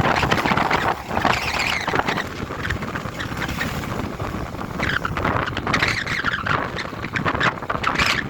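DT-75 crawler tractor's diesel engine running, with recurring bursts of higher-pitched squealing, rattling noise over the steady running.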